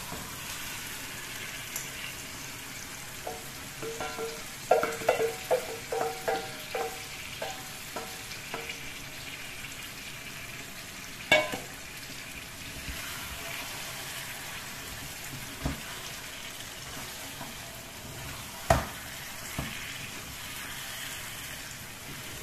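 Marinated chicken pieces sizzling as they fry in the hot oil and masala of a kadai, a steady hiss, just after the oil has separated from the masala. A run of short ringing metal clinks comes about 4 to 9 seconds in, and there are single sharp knocks at about 11 and 19 seconds.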